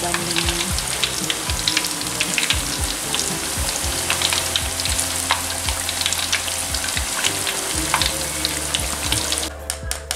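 Peyek crackers of rice flour and anchovies deep-frying in hot oil in an aluminium wok, a steady sizzle full of fine crackles. Near the end the sizzle drops away as the crackers are lifted out of the oil on a wire strainer.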